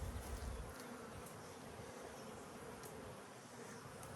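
Honeybees buzzing in a steady hum around an opened hive during an inspection; the colony is a strong one, and its bees are defensive.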